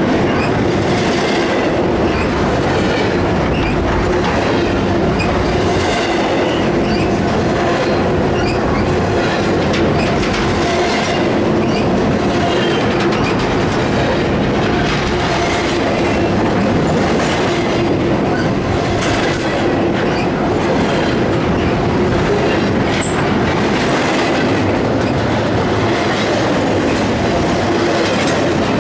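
Union Pacific intermodal freight cars rolling past at close range: a steady loud rumble of steel wheels on rail, with clicking over the rail joints and a steady whine held under it.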